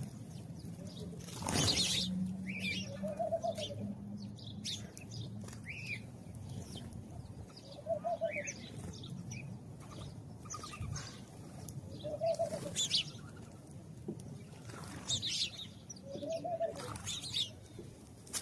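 A dove cooing, a short rise-and-fall coo about every four and a half seconds, four times. House sparrows chirp in quick, scattered notes in between. A loud rush of noise comes about two seconds in.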